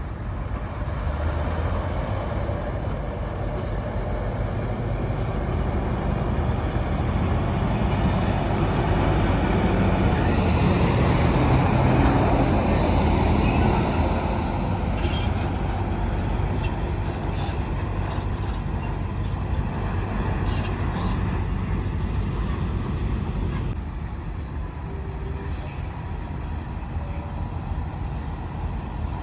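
Heavy vehicles rumbling past: a steady low rumble that swells to its loudest about twelve seconds in, then slowly fades.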